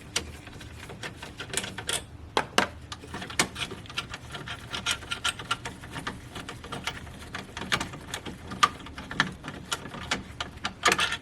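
Hand tools working on bolts and parts in a car's engine bay: a long run of irregular small metallic clicks and knocks.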